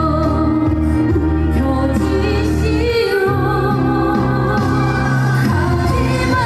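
Trot song performed live: a woman singing a wavering, held melody over a band with a steady bass line.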